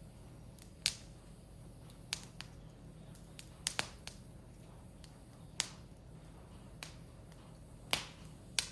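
Firewood burning in an open fire pit, crackling with sharp, irregular pops, about a dozen in a few seconds, over a faint low hum.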